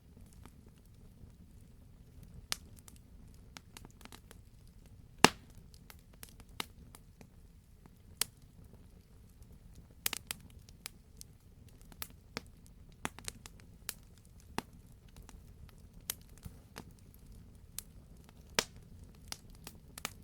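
Wood fire burning in a fireplace: scattered sharp crackles and pops over a low steady rumble, with one loud pop about five seconds in and another strong one near the end.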